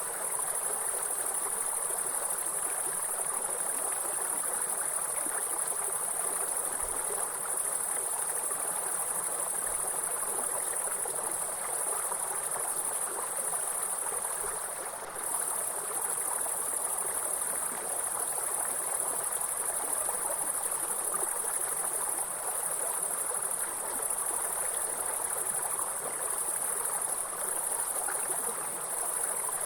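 A continuous, high-pitched insect chorus over the steady rush of running water. The insect sound drops out for a moment about halfway through, then resumes.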